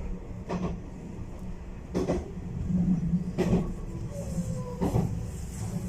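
Black Ship (Kurofune) electric train rolling slowly on the rails: a steady low rumble with a knock about every second and a half, and a brief sliding tone about four seconds in.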